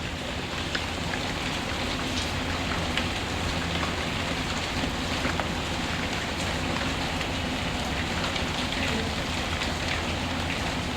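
Steady rain falling, an even hiss with scattered small ticks and pops.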